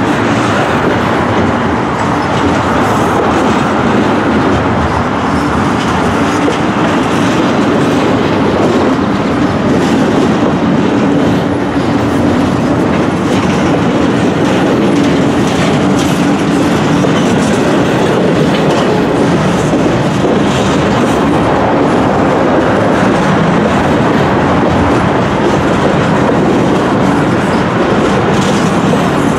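Double-stack intermodal well cars of a long Canadian Pacific freight train rolling past: a loud, steady rumble of steel wheels on rail with constant clickety-clack.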